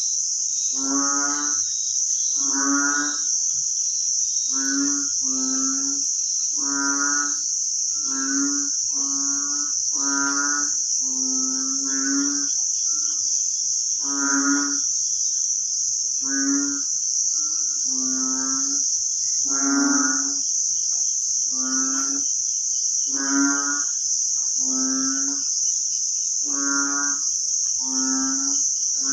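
An animal giving short, pitched, moaning calls, one roughly every second, over a steady high buzz of insects.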